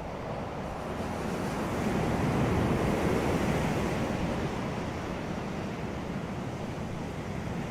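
Sea waves breaking on a beach: one wave swells in about a second in, crashes around two to three seconds, then washes back more quietly.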